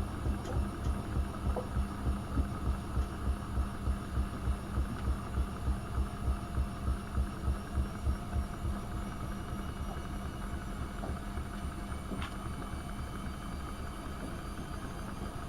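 AEG Öko-Lavamat 72520 washing machine running a boil wash. A low throbbing pulse about three times a second stops about nine seconds in, leaving a steady hum.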